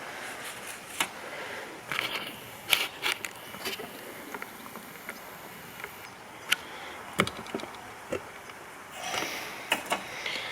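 Hands handling loose engine-bay hoses and parts: about eight scattered light clicks and knocks, with a short rustle near the end.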